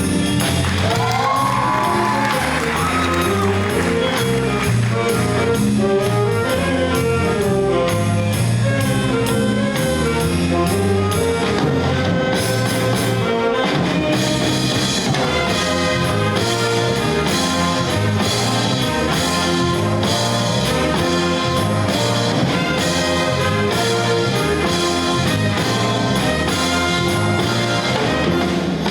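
Jazz big band playing live: a brass section of trumpets and trombones over a rhythm section keeping a steady beat.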